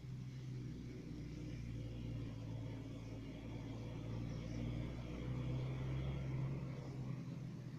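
A faint, steady low hum with a few pitched tones, like an engine or motor running, easing off near the end.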